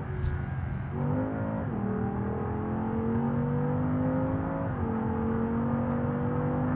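Porsche Cayenne Turbo S twin-turbo V8 heard from inside the cabin, accelerating through the gears: the engine note climbs steadily, drops with an upshift about a second and a half in and again near the middle, then climbs again. A brief hiss comes right at the start.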